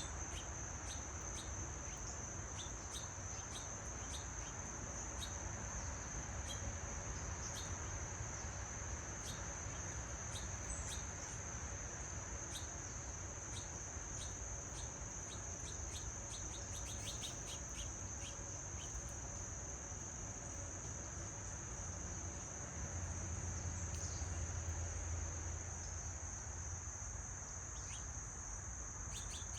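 Insect chorus trilling steadily at one high pitch, with many short bird chirps, most of them in the first two-thirds. A low rumble lies underneath and grows a little louder about 23 seconds in.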